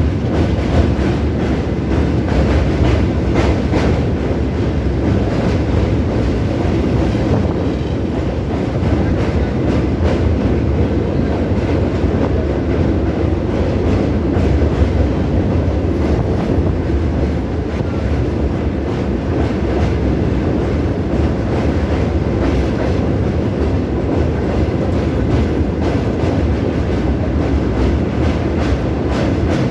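Old electric multiple unit (EMU) local train heard from on board while running: a steady, loud rumble and rattle of the coach and wheels on the track.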